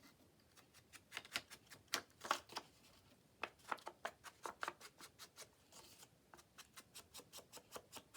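Faint paper-crafting handling sounds: a run of small sharp clicks and taps, irregular at first and settling to about three or four a second in the last couple of seconds, with a brief paper rustle about six seconds in.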